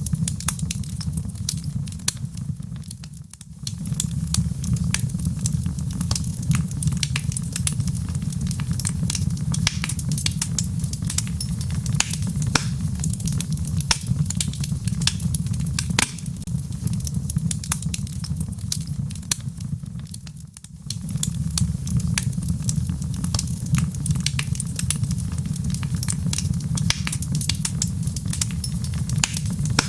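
Wood fire of burning logs in a fireplace crackling, with many sharp pops over a steady low rumble. The sound briefly dips twice, about three seconds in and again about twenty-one seconds in.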